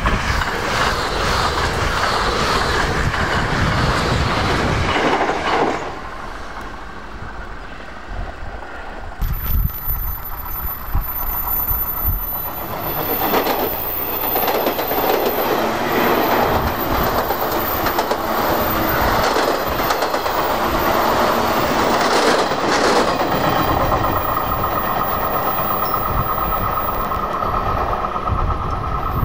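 Two electric express trains pass close by at speed, one after the other. The first, a 681-series with a rounded white nose, rushes past in the first five seconds. After a short lull a second express passes for about fourteen seconds, its wheels clattering over the rail joints. Near the end a steady tone comes in as another train approaches.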